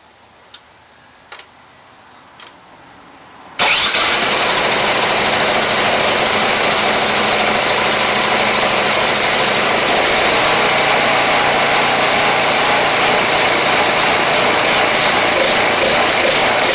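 Husqvarna ST224 snowblower's engine starting: a few sharp clicks, then it catches abruptly about three and a half seconds in and runs loud and steady at high speed.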